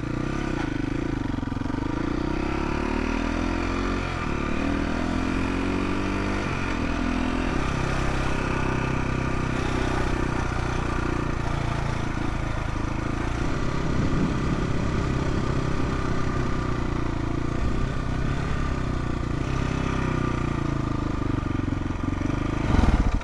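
Motorcycle engine running, its pitch rising and falling with engine speed. There is a loud swell near the end, and then the sound drops away.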